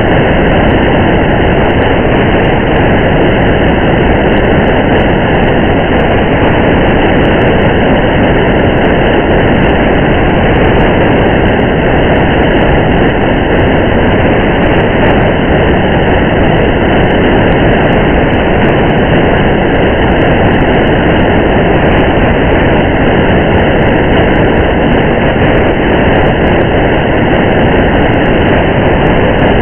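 Steady, even noise of a car driving on a highway in the rain: tyre and road noise mixed with rain, with faint scattered drop-like ticks and no change in pitch.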